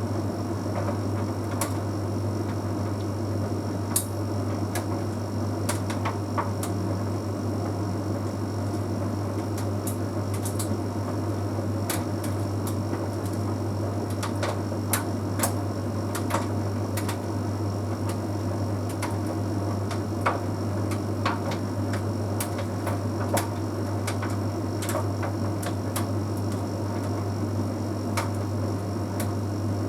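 Bosch Series 6 heat pump tumble dryer running mid-way through a drying cycle: a steady low hum with irregular light clicks and taps as the load tumbles in the drum.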